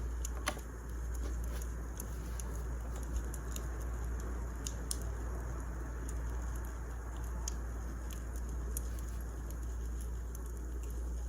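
Wood fire crackling: a steady low hiss with sharp, irregular pops and snaps about once a second, over a constant low hum.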